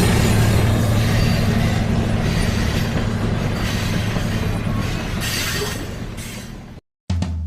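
A train running on the rails, a steady rumble that fades away over about seven seconds. It cuts to silence for a moment, and music with drums starts near the end.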